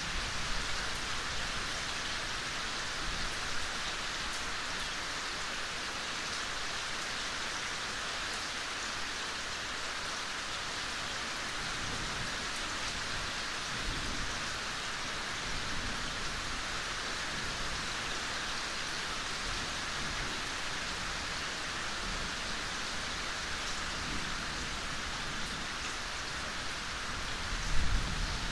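Steady, soft rain falling in a forest, an even hiss of drops. A few low rumbles come and go partway through, and there is one brief louder low thump near the end.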